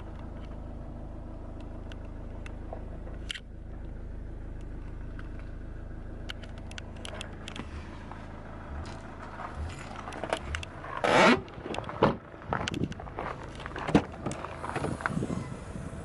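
A car's steady low running hum, with scattered clicks and knocks and a loud scraping rush lasting about a second roughly eleven seconds in.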